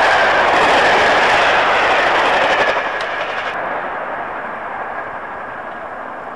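Electric multiple unit passing close at speed: a loud rush of wheel and rail noise that falls away about three seconds in. After a click, a fainter, steady running noise of a distant approaching train follows.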